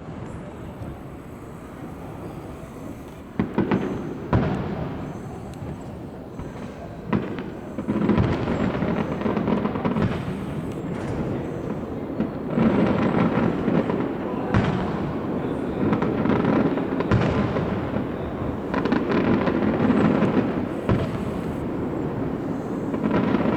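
Fireworks display: a few sharp bangs spaced out at first, then about eight seconds in a dense, continuous run of crackling with repeated bangs.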